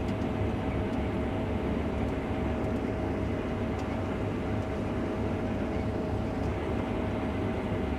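Case IH combine running steadily while harvesting wheat: an even, low rumble with a constant whine on top.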